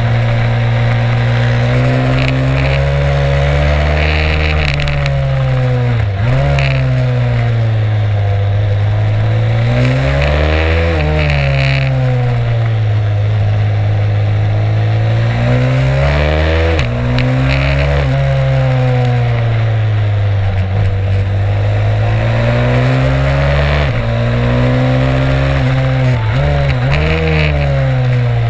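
Stomp 140 pit bike's single-cylinder four-stroke engine heard onboard at speed, its revs climbing and falling every few seconds as it accelerates and backs off. It has quick sharp dips in pitch, a few times, like gear changes, over a steady rushing noise.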